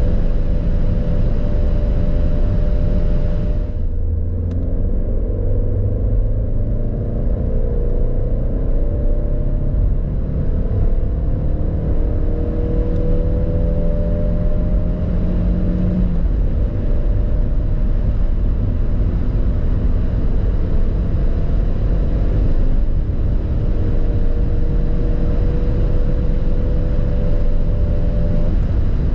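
Chip-tuned 1.2 TSI turbocharged four-cylinder petrol engine of a Škoda Rapid, heard from inside the cabin running hard near 5,000 rpm. The note drops as the throttle is lifted about four seconds in, then climbs again under full throttle in third gear. There is an upshift to fourth about halfway through, after which it keeps pulling steadily.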